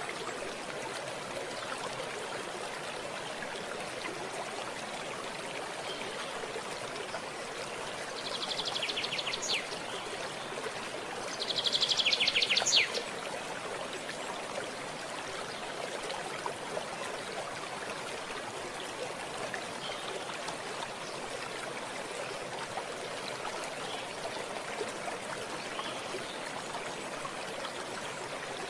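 A stream of water running steadily. Twice a bird calls over it with a short burst of rapid high notes, about eight and twelve seconds in, the second louder.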